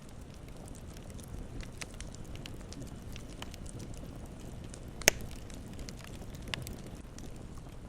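Campfire burning, a steady low hiss and rumble with scattered small crackles and one sharp loud pop about five seconds in, followed by a smaller pop.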